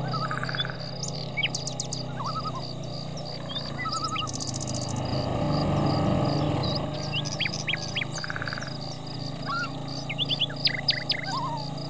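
Songbirds chirping and trilling, many short calls scattered throughout, over a steady low hum, with a fast, even, high pulsing like an insect behind them.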